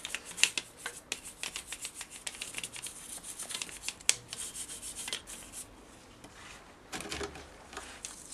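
A toothbrush scrubbing degreaser into a motorcycle engine casing in quick, scratchy strokes, with a short lull about six seconds in.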